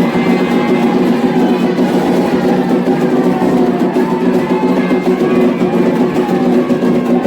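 Candomblé ritual music: drums played in a fast, continuous rhythm with voices singing over them.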